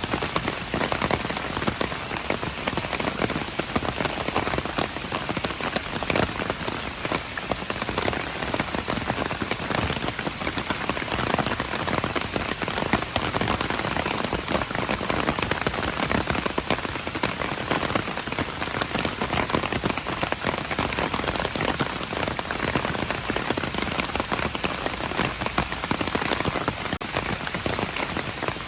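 Steady rain falling on hard surfaces: an even hiss of many drops with fine pattering, unchanging in strength.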